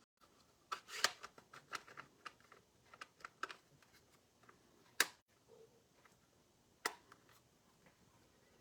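Light clicks and taps of stamping and craft supplies being handled on a tabletop: a quick run of clicks in the first few seconds, then single sharp clicks about five and seven seconds in.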